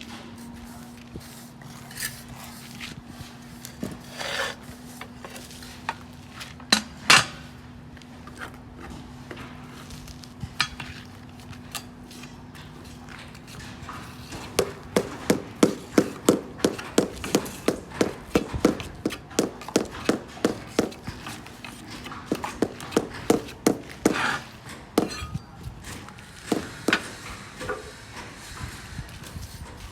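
Scattered knocks, then from about halfway a run of quick, even taps, about two to three a second, for some ten seconds, typical of a ceramic roof tile being tapped down to bed it in mortar. A steady low hum runs under the first half.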